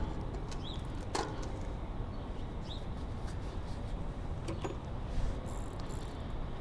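A few light clicks and taps from handling the bicycle over a steady low background rumble, with two short high chirps about a second and three seconds in.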